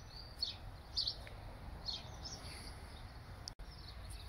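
Small birds chirping now and then in the background, short high chirps every second or so, over a faint low outdoor hum; the sound drops out for an instant about three and a half seconds in.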